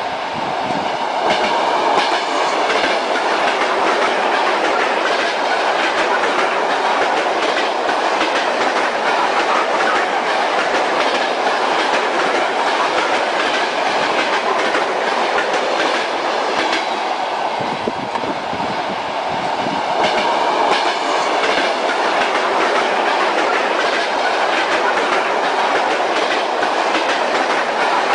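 Moving train, its wheels clattering over the rail joints against a steady running noise. The noise eases briefly about two-thirds of the way through.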